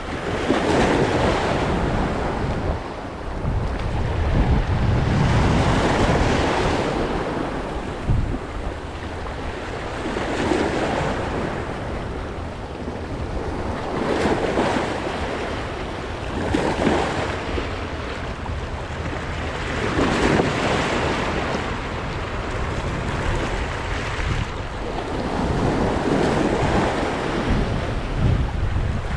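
Sea waves washing in, surging louder every few seconds, with wind buffeting the microphone.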